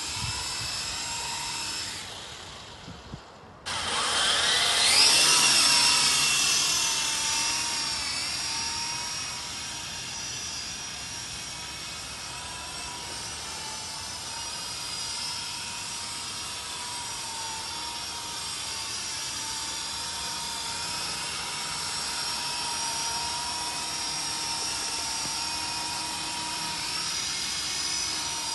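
Twin electric motors and rotors of a SYMA Chinook toy RC helicopter whining steadily. The whine dies down about two seconds in, then starts again a second or so later and rises in pitch before settling into a steady whine that wavers slightly as the throttle is worked.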